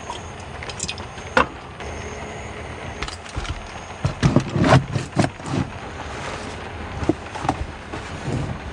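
Steady rain falling, with a run of sharp knocks and clatters from things being handled, loudest and busiest about four to five seconds in.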